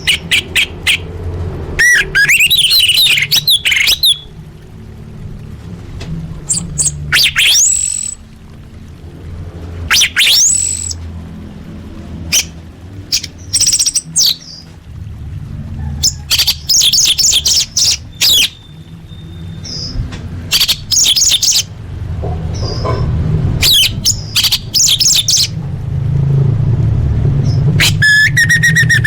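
Orange-headed thrush singing: loud bursts of rapid, varied whistled notes with quick rising and falling sweeps, broken by short pauses, over a low steady hum.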